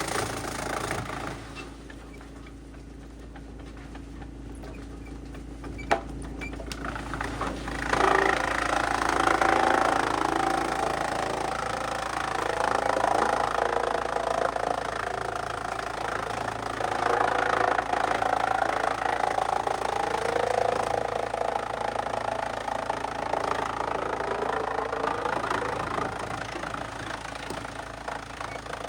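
Large industrial wood chipper running with its engine steady, quieter for the first few seconds, with one sharp knock about six seconds in. From about eight seconds in, a loud, rough noise of wood being shredded rises and falls over the engine.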